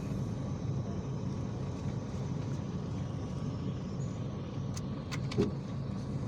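IVECO Crossway city bus: a steady low engine and cabin rumble, with a few short rattling clicks about five seconds in.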